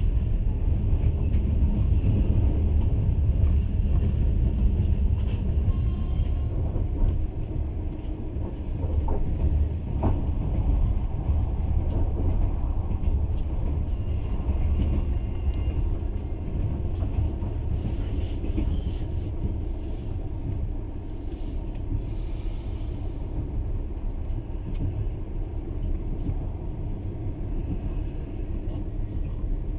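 Passenger train running at speed: a steady low rumble of wheels on rails, heard from inside the carriage. It drops a little in level about seven seconds in.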